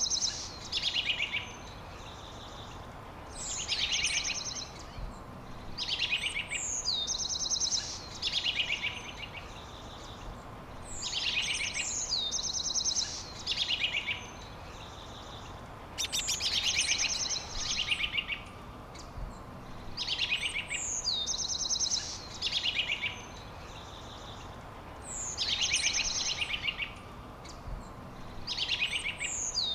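A songbird singing the same short phrase over and over, about every three and a half seconds: a high whistle falling in pitch, then a buzzy trill. A faint steady hiss runs underneath.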